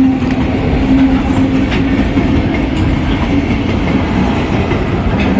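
A light engine of diesel locomotives running past with a steady engine drone, and wheels clicking now and then over the rail joints.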